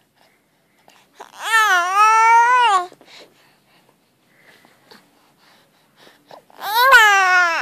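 Baby making two long, drawn-out vocal cries with a wavering pitch, one about a second in and another near the end, with quiet in between.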